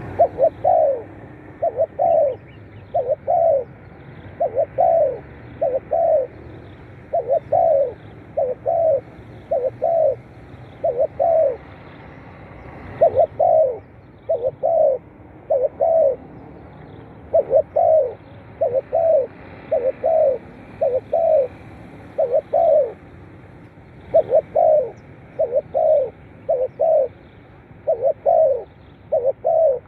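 Spotted dove cooing: a long run of short, low coo notes repeated in phrases, separated by brief pauses.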